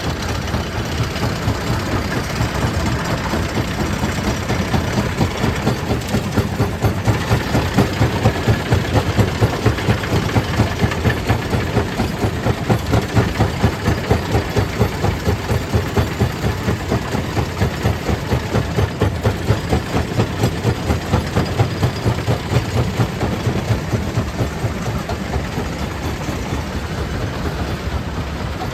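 Stone crusher plant machinery running with a steady, heavy rhythmic beat of about three pulses a second, the beat growing more pronounced through the middle and easing near the end.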